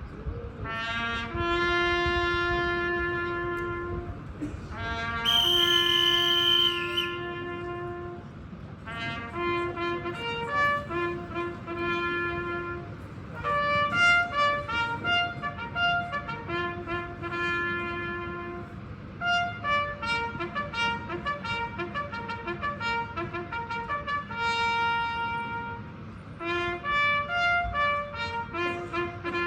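Solo brass instrument playing a slow remembrance call: long held notes separated by short breaks. A brief high hiss sounds about five to seven seconds in.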